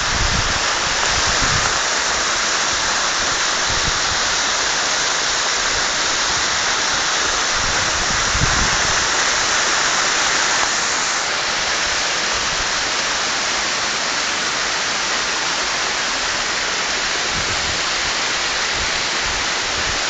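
Waterfall: water pouring in a curtain over mossy rock, a steady, even rush with a few brief low bumps near the start and about eight seconds in.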